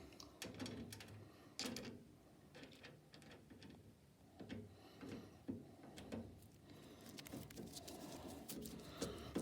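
Faint, irregular clicks, taps and knocks of hand work on the old box fan's back panel and screws as the fan is put back together.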